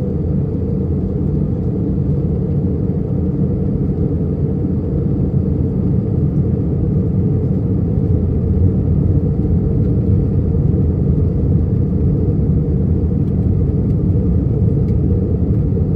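Steady low rumble of an Airbus A319's jet engines and rushing air, heard inside the passenger cabin in flight. It grows slightly louder over the first several seconds.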